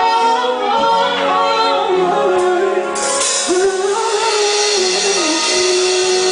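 A female singer holds long, wavering notes over a live rock band; about halfway through, a bright hiss fills in over the music.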